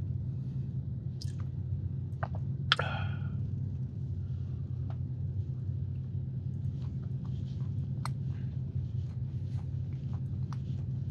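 A person chewing a soft marshmallow sandwich cookie, with small scattered mouth clicks and smacks, one sharper about three seconds in. A steady low hum runs underneath.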